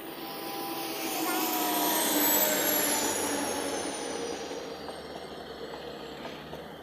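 WDP4D diesel locomotive, with its EMD 16-cylinder two-stroke engine, passing close by at speed. Its sound builds, peaks a little over two seconds in and fades, and a high whine falls in pitch as it goes past.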